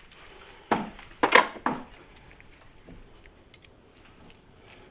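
Small steel bolts being handled and clinking against each other and the bench, a quick cluster of clatters about a second in.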